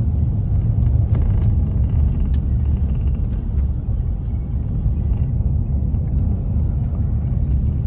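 Steady low rumble of a moving vehicle heard from inside the cabin, with a few faint clicks and rattles.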